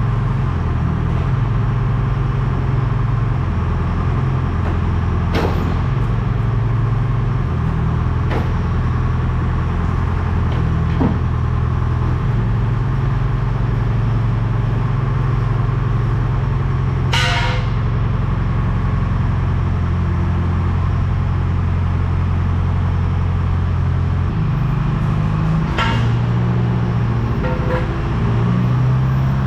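Heavy engine running steadily, its speed stepping up and down several times, with occasional metallic clanks, the loudest about 17 seconds in.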